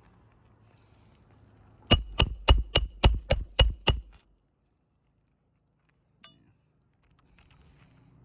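Roofing hammer striking a metal roof snake eight times in quick succession, about four blows a second, each with a metallic ring, driving a roofing nail back in under a 3-tab shingle. A single lighter metallic clink follows a couple of seconds later.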